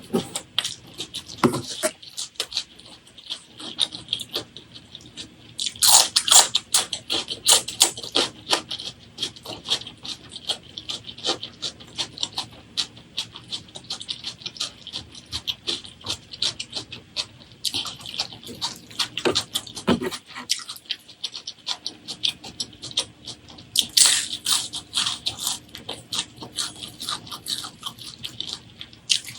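Close-miked wet chewing and mouth smacking while eating, a dense run of small clicks, with louder bursts about six seconds in and again near twenty-four seconds.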